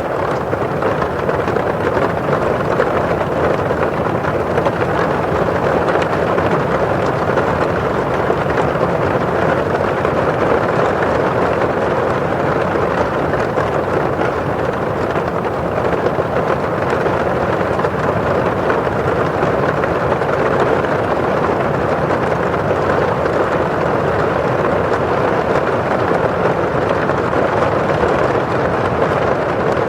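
Steady rain falling on a window pane and outside, an even, unbroken wash of noise with no single drops or thunder standing out.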